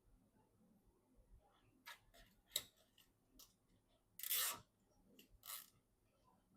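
Hand-handling noises during a PC assembly: scattered light clicks, a sharp click about two and a half seconds in, and two short scratchy sounds near the end.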